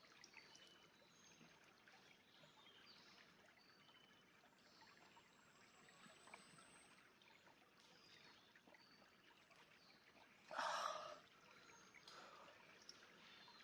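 Near silence with the faint, steady hiss of a flowing stream. About ten and a half seconds in, a brief, louder noisy sound lasts under a second.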